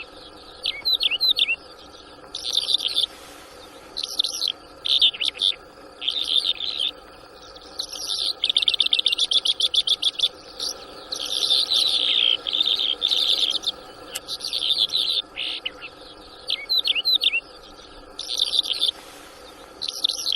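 Bimaculated lark song: repeated phrases of chirps and twittering, with short pauses between them and a long, fast trill about eight seconds in. Two short bursts of noise break in, about three seconds in and near the end.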